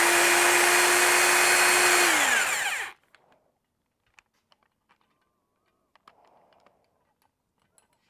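Power drill spinning a stone cylinder hone inside an outboard engine's cylinder bore. It runs at a steady speed, then is released about two seconds in and winds down, its whine falling in pitch until it stops about three seconds in. A few faint clicks of handling follow.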